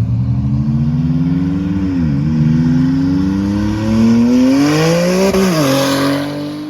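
A car's engine and exhaust accelerating hard through the gears. The engine note climbs, drops at an upshift about two seconds in and again about five seconds in, then fades as the car pulls away.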